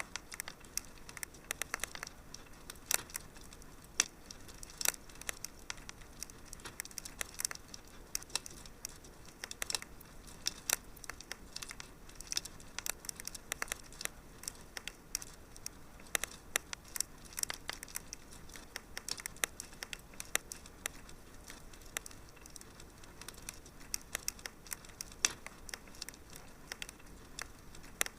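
Wood fire crackling in a fireplace: irregular sharp pops and snaps, several a second and some louder than others, over a soft steady hiss.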